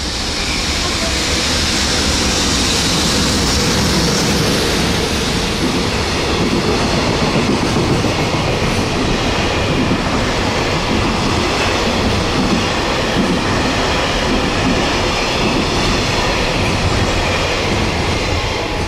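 Container freight train passing through a station at speed: a steady, loud rumble with wheels clattering over the rail joints as the wagons go by.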